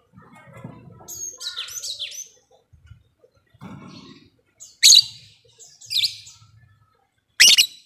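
Lovebird chattering with a burst of fast, high twittering about a second in. This is followed by three loud, sharp, short calls spread over the next few seconds.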